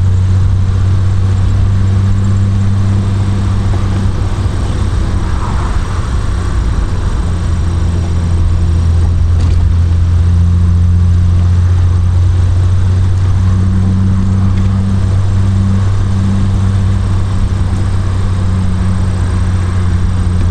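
Triumph Vitesse Mk2's straight-six engine running steadily at an even, unhurried cruise of about 30 mph, a constant low drone.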